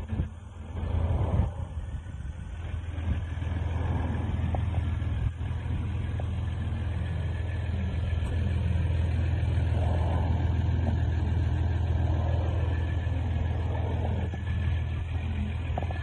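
2015 RAM 1500 pickup's engine running steadily with a low hum.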